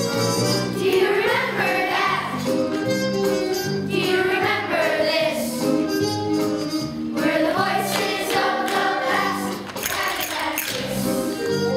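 Music with a group of voices singing sustained, wavering notes over a steady low accompaniment.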